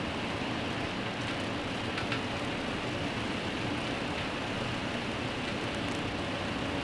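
Steady rain falling, a constant even hiss mixed with a low traffic rumble, with a few faint drip ticks about two seconds in.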